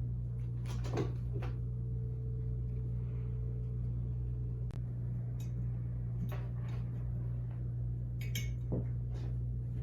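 Scattered light clinks and knocks of kitchenware being handled, about a dozen short hits spread unevenly, over a steady low hum.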